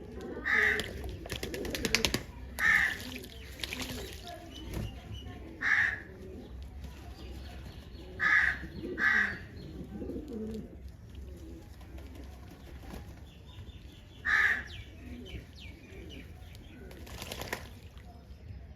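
Pigeons cooing, with bursts of wing flapping and several short, loud calls from another bird scattered through.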